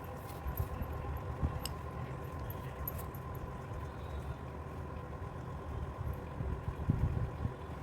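Steady low rumble of background noise with a faint, even hum and a few light clicks.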